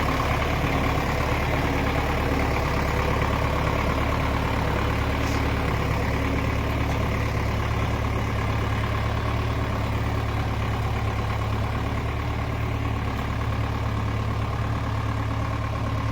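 Mahindra 575 DI XP Plus tractor's four-cylinder diesel engine running steadily at an even, low speed.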